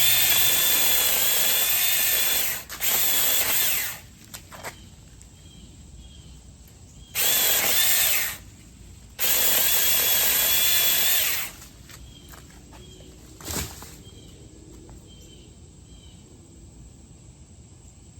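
Mini cordless electric chainsaw running in four bursts, about a second to two and a half seconds each, as it cuts through persimmon tree branches. A short thump follows a couple of seconds after the last burst, and faint insect chirping carries on beneath.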